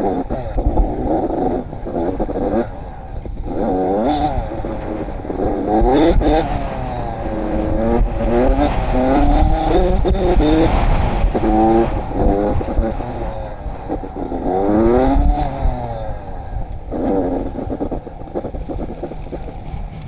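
Dirt bike engine revving on the throttle, its pitch repeatedly climbing and dropping as it changes gear, with heavy wind rush and rattling over the rough trail.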